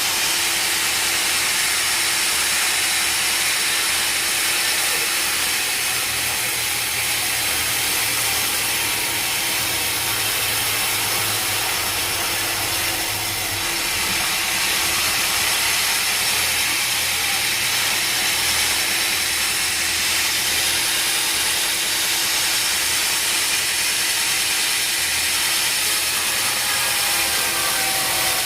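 Sawmill machinery running: a steady, unbroken hiss of sawing noise with a faint hum beneath it.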